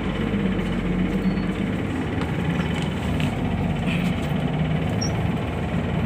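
Bus engine idling: a steady low rumble that holds without a break.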